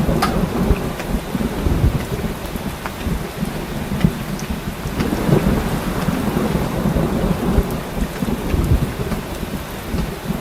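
Heavy rain falling in a thunderstorm, with a continuous low rumble of thunder under the hiss and scattered sharp drop taps.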